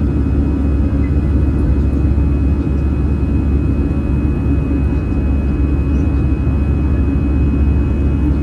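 Steady cabin noise of an Airbus A320 airliner in flight: a constant low rumble of engines and airflow that holds even throughout.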